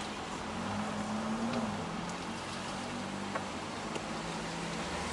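An old Porsche's engine and road noise heard from inside the cabin while driving. The engine note rises a little about a second in, then settles back to a steady cruise.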